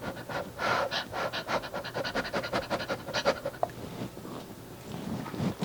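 A fast run of short rubbing or scraping strokes, about seven a second, close to the microphone. After about three and a half seconds it tails off into quieter scattered rustling and ends with a sharp click.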